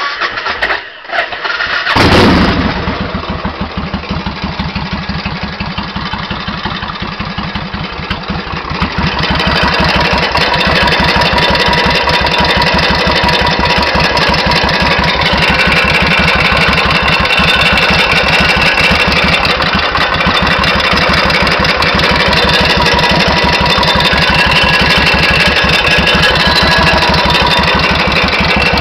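1991 Suzuki VS1400 Intruder's V-twin engine cranking, catching about two seconds in, then idling with a steady, even beat; it grows louder about nine seconds in. The engine has a mechanical noise that mechanics could not diagnose, which the owner suspects comes from a worn timing chain.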